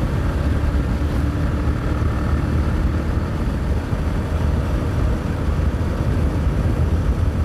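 Bajaj Pulsar 220F's single-cylinder engine running steadily as the motorcycle cruises, with a heavy low rumble of wind and road noise on the microphone.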